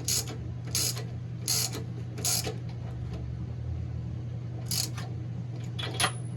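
Ratchet wrench being worked back and forth to tighten a fastener, short clicking strokes about one every 0.8 s, then a pause and two more near the end. A steady low hum runs underneath.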